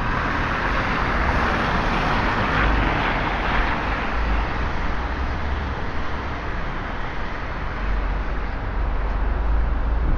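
Road traffic passing on a wet street: tyres hissing through water, loudest in the first few seconds and then easing, over a steady low rumble of engines.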